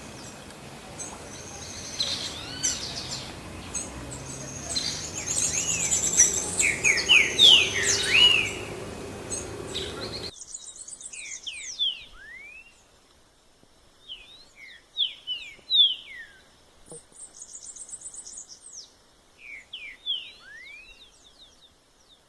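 Green-winged saltator (trinca-ferro) singing: loud whistled phrases of quick rising and falling notes with short high trills. About ten seconds in the background noise cuts off suddenly and the phrases go on, more spaced out.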